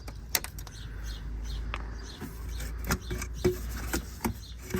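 Scattered sharp clicks and knocks of hand tools and car parts being handled during repair work under a car, several over a few seconds, over a steady low hum.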